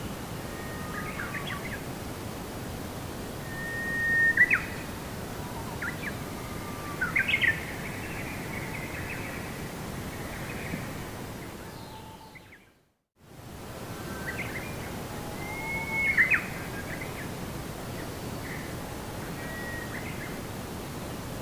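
Several birds chirping and giving short whistled calls over a steady background hiss, with a few louder sharp chirps. Just past the middle the whole sound fades out to silence for a moment and fades back in.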